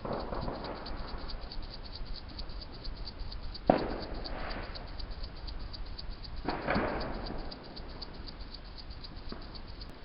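A hedgehog rustling and rattling dry leaves and nest material while building its nest, in loose bursts of a second or so. There is one sharp bang about four seconds in, and a faint, fast, regular ticking underneath throughout.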